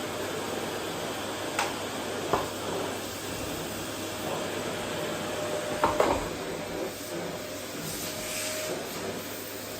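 Household vacuum cleaner running steadily on a wooden floor, with a few sharp knocks, the loudest about six seconds in.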